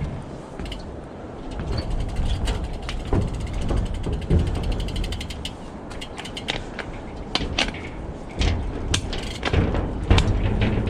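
Road bike's rear hub ratchet ticking rapidly while the rider coasts, over steady wind and tyre rumble, with scattered sharp clicks and knocks in the second half.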